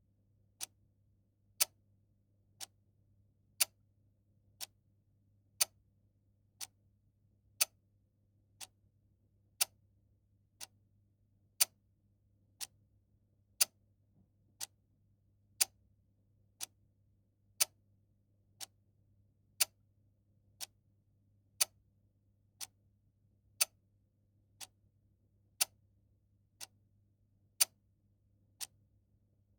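Clock ticking steadily, one tick a second, alternately louder and softer in a tick-tock pattern, over a faint low hum.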